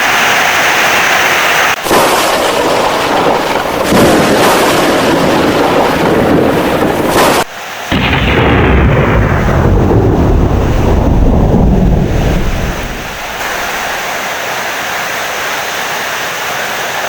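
Heavy rain with loud thunder rumbling through it, the thunder deepest about eight to twelve seconds in, then settling to steady rain near the end. The sound drops out briefly twice, near two seconds and again about seven seconds in.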